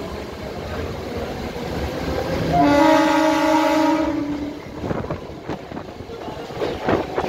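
A train horn sounds once for about two seconds, a few seconds in, over the steady rumble of a running train. A few sharp clacks follow near the end.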